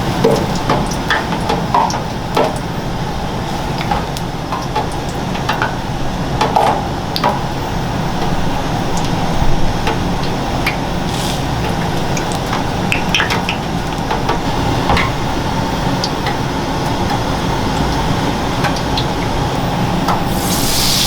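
Kitchen work sounds: scattered clicks, taps and clinks of utensils and dishes over a steady background hum, with a brief hissing rush near the end.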